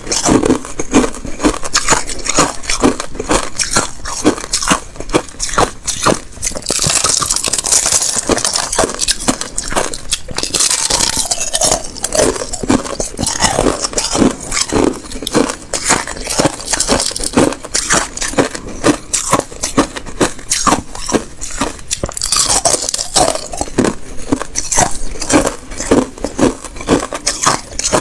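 Thin sheets of ice being bitten and chewed, a fast run of crisp crunches and cracks, with two spells of denser crackling as a mouthful is ground up.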